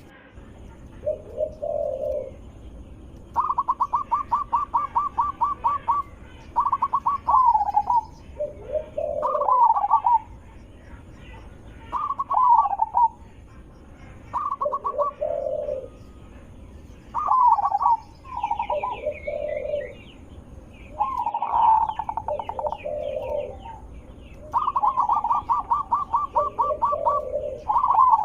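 Zebra dove (perkutut) singing: repeated phrases that open with a fast stuttering trill and end in lower, rolling coos, over and over. Faint chirps of another small bird come in about two-thirds of the way through.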